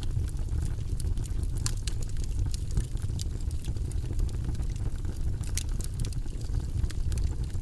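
Wood logs burning in a fireplace: a steady low rumble of flame with irregular sharp pops and crackles from the burning wood.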